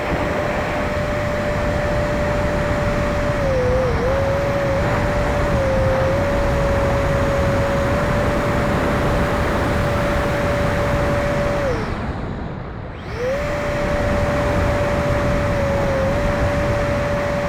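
70 mm electric ducted fan of an E-flite F-16 RC jet running at steady throttle: a steady whine over loud air rush. About twelve seconds in the throttle is cut, and the whine drops away. A second later the fan spools back up to the same pitch.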